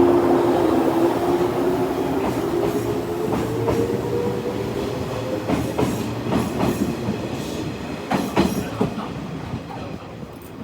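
A train pulling away. Its whine rises in pitch over the first few seconds, wheels clack over the rail joints, and the sound fades as it goes.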